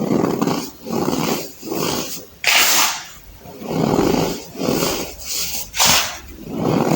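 Compacted baking soda crushed and crumbled by hand: a run of crunches, roughly one every two-thirds of a second, a few of them sharper and hissier.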